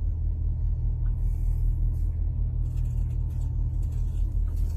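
Steady low rumble of an idling motor vehicle engine, pulsing evenly.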